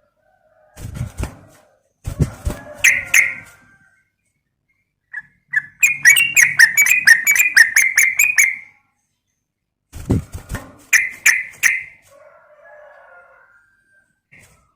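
Yellow-vented bulbul (trucukan) calling in bursts of short bubbly notes. In the middle comes a longer, rapid chatter of about a dozen notes, and some bursts start with low thumps.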